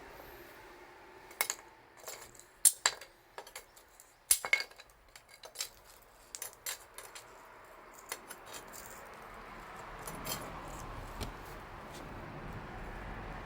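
A scattered run of sharp clicks and clinks from small hard objects, irregular over several seconds, then a steady low background.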